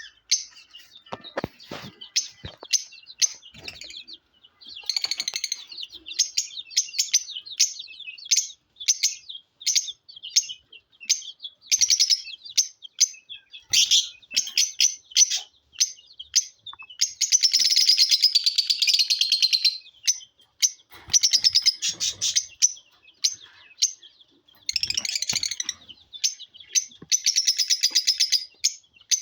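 Lovebirds chirping: a string of sharp, high chirps, a few a second, broken by longer bursts of shrill chattering, the longest a little past the middle.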